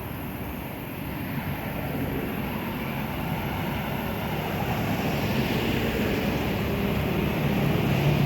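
A motor vehicle's engine and road noise, a low rumble that grows steadily louder.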